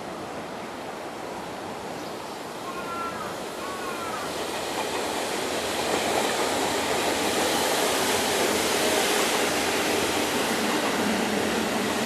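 JR Central 371 series electric multiple unit passing through a station without stopping, its running noise growing loud about halfway through and then holding steady.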